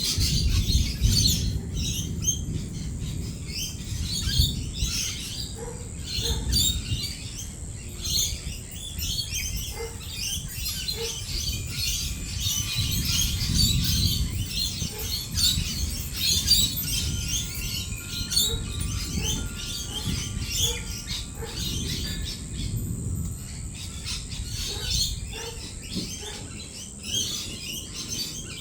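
A flock of lorikeets chattering and screeching without pause, under a low rumble of rolling thunder that swells and fades several times.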